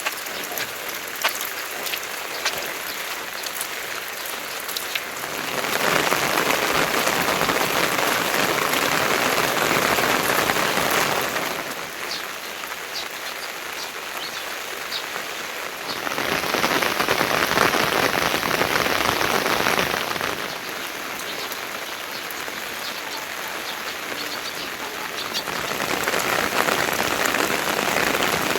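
Steady rainfall with separate drops ticking in the first few seconds. The rain swells heavier three times: about five seconds in, about sixteen seconds in, and again near the end.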